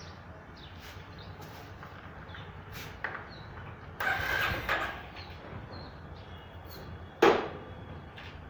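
Birds chirping faintly over a low background hum, with a short rustling scrape about four seconds in and a single sharp knock near the end, the loudest sound.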